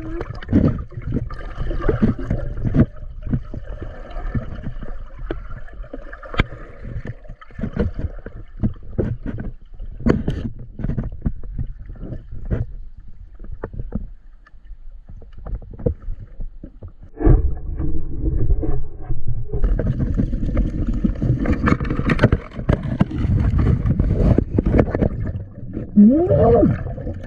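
Water splashing and sloshing close to the microphone, with irregular knocks, quieter for a few seconds in the middle, then busier and louder from a little past halfway.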